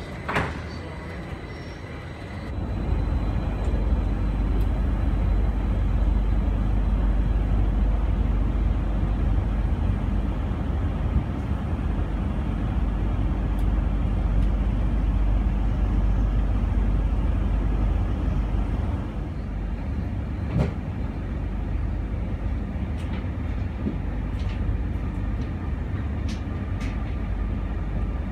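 SBB double-deck passenger train running past on the adjacent track: a loud, steady low rumble of the train's running gear and motors that comes in suddenly a couple of seconds in and eases off somewhat after about nineteen seconds. Short sharp clicks sound at the start and again later.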